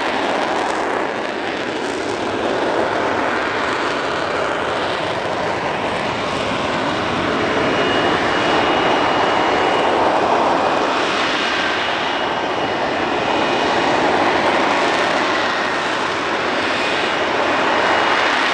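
Aircraft engine noise: a loud, continuous roar that swells and eases slowly, with faint high whining tones now and then.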